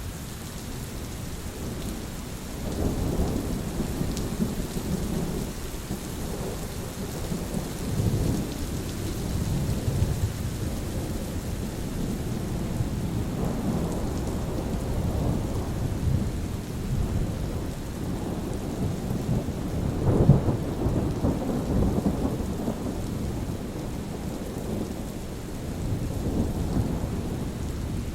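Steady rain falling with thunder rumbling again and again, the rolls rising and fading, the loudest about twenty seconds in.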